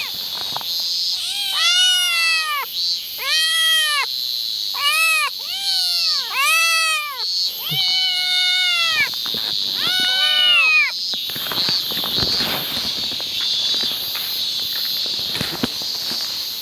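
Cat meowing: about seven drawn-out calls, each rising and then falling in pitch, that stop about two-thirds of the way through. A steady high hiss runs underneath throughout.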